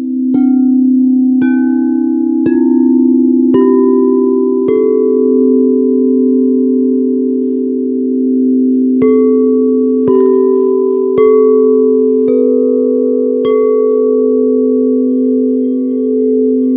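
Singing bowls struck one after another over a steady ringing drone: five strikes about a second apart, climbing in pitch, then after a pause of about four seconds five more, each note ringing on and overlapping the next.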